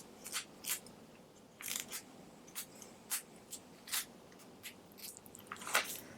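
Paper crackling and clicking faintly as the stiff pages of a watercolour journal are handled and turned: a handful of short, irregular crinkles, with a longer rustle near the end.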